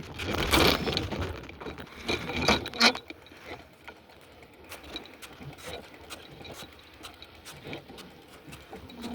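Rustling noise for about the first three seconds, then a rapid run of light clicks, typical of a bicycle's freewheel ticking while coasting.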